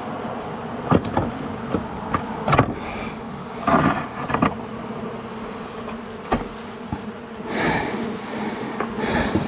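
Honey bees swarming out of a disturbed wall colony, buzzing steadily around the microphone, with several sharp knocks and short scrapes on top.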